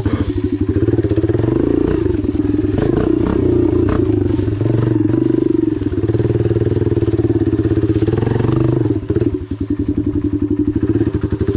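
Dirt bike engine running close by and being revved, then dropping back to a steady idle about nine seconds in.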